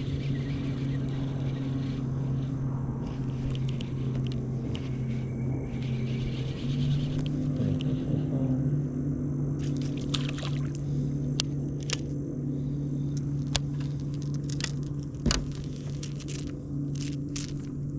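A steady motor hum that rises slightly in pitch about a third of the way in, with scattered clicks and knocks in the second half.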